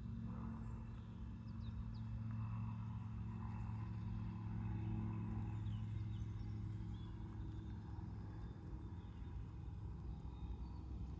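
Steady low hum of a distant engine, with a few faint bird chirps above it.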